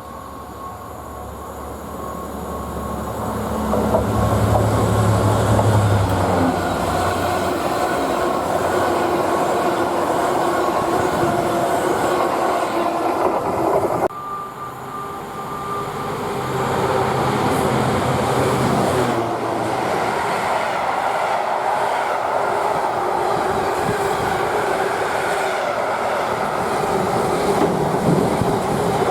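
Diesel-hauled train passing close by: the locomotive's engine hum swells as it passes, then the wagons roll by with a steady clatter of wheels on the rails. About halfway through the sound cuts off suddenly to another passing locomotive and train, with the same engine pass followed by wheel noise.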